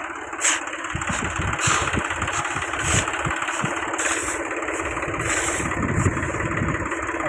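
A tractor's diesel engine running steadily.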